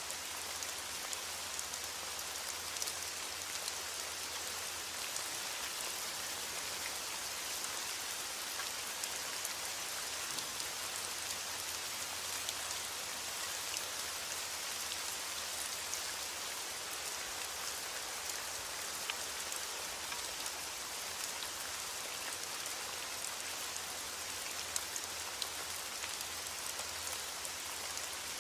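Heavy rain falling steadily against a window, an even hiss with scattered small ticks and pops.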